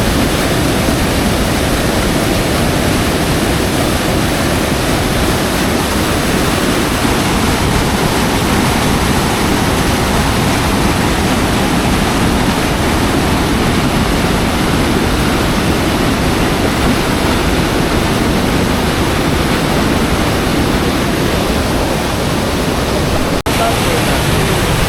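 Loud, steady roar of a waterfall, rushing water pouring over rocks, with a momentary dropout about a second and a half before the end.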